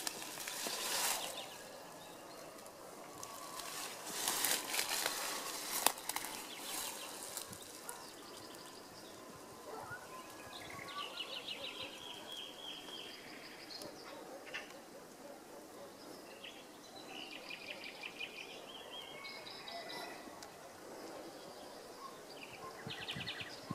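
Outdoor ambience: scattered rustling in the first few seconds, then a small bird singing short, rapid high trills every few seconds.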